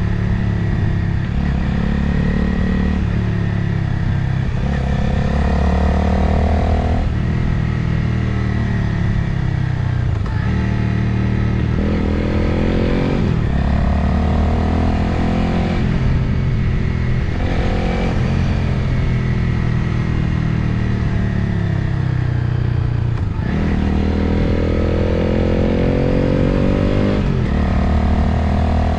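Motorcycle engine heard from the rider's position while riding, its note climbing and then dropping back several times, with wind rushing past the microphone.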